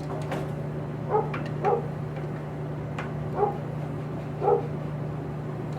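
A dog barking four short times over a steady low hum, with a few faint clicks.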